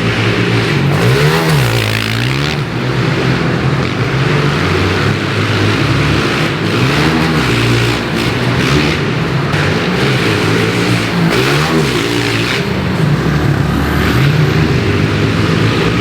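Small four-stroke pit bike engine being ridden hard, its pitch rising and falling again and again every second or two as the rider accelerates and backs off.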